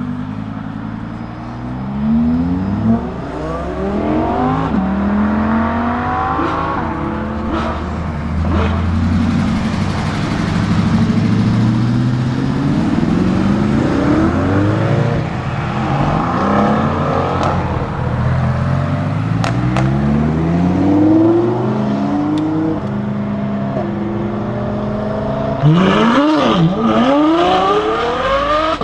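Lamborghini Huracán STO's naturally aspirated V10 accelerating hard, its pitch climbing again and again and dropping back at each upshift. Near the end a car passes close, its pitch rising then falling sharply.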